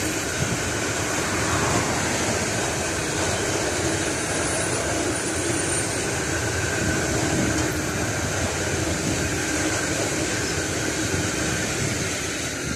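Freight train of bogie hopper wagons rolling past, a steady noise of steel wheels on rail with a few faint held ringing tones, starting to fade near the end as the last wagon passes.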